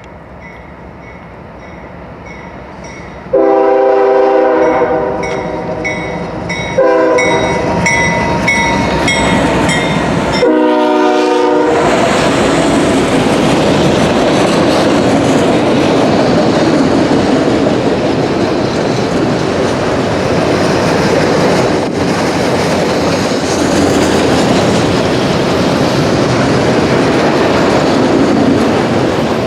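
Freight locomotive air horn sounding faintly, then loudly and close in two long blasts and a short one. The horn gives way to the steady rumble and rail clatter of an auto rack freight train rolling past.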